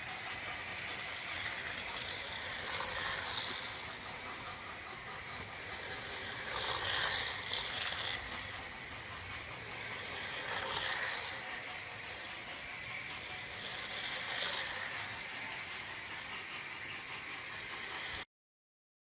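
Carrera Go slot cars and O-gauge model trains running on the layout: a steady mechanical whir and rattle that swells about every four seconds as cars pass. It cuts off suddenly near the end.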